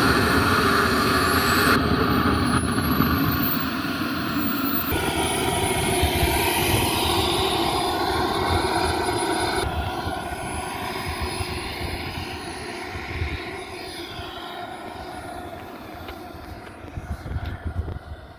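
Propeller airplane engine running at high power. A high whine rises in pitch over the first few seconds, then the sound fades steadily as the plane moves away.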